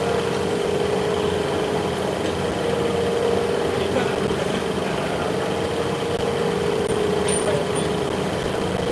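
Machinery running steadily with a constant hum, with a few faint light ticks near the end.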